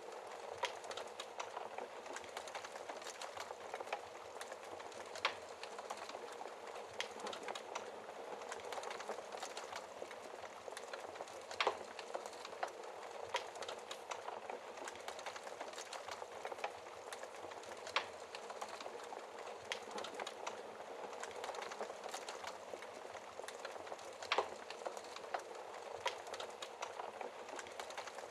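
Wood fire burning in a fireplace: a steady hiss and fine crackle of burning logs, broken every few seconds by sharp, irregular pops of the wood.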